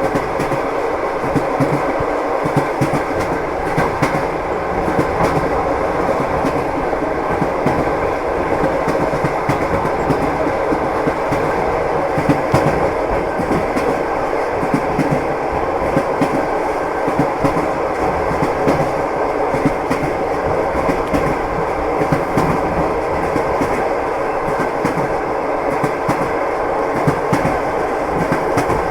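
Train wheels clattering over the rails: a steady rumble with a dense run of clicks.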